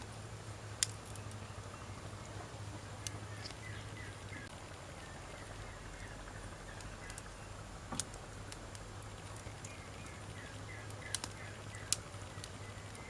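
Wood fire burning, with a low steady sound under sharp crackling pops at irregular intervals, the clearest about a second in, near the middle and near the end.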